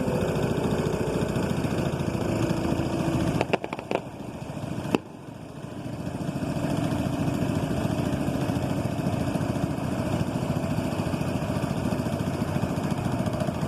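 Motorboat engine running steadily. A few sharp clicks and a brief drop in level come about three and a half to five seconds in.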